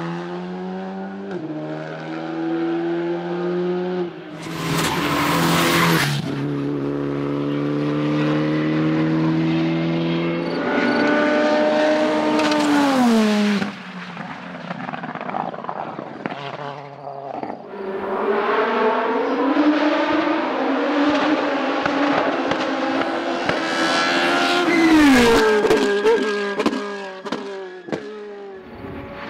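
Race car engines being driven flat out up a hillclimb course. The pitch climbs through each gear, drops sharply at every upshift, and falls away twice under braking. There is a short burst of noise about five seconds in and another late on.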